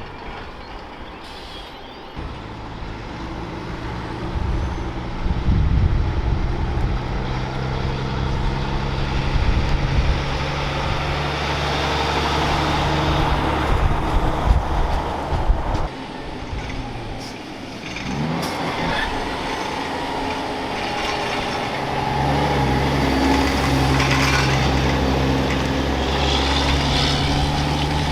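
Heavy diesel trucks driving past with a steady engine drone. One truck's engine fades after about fifteen seconds, and another builds in a few seconds later.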